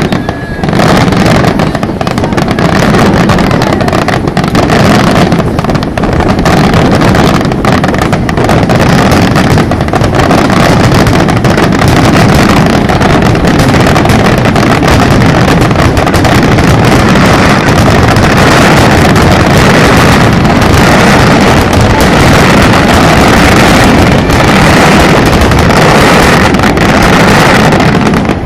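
A loud, dense barrage of fireworks, its bangs coming so fast that they merge into one near-continuous rumble and crackle.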